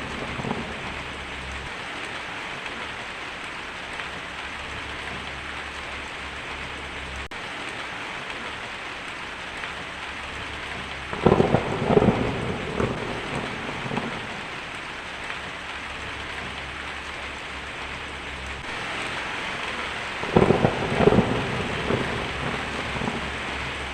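Heavy rain falling steadily on a tin roof, with two claps of thunder, the first about eleven seconds in and the second near the end, each a quick series of cracks followed by rumbling.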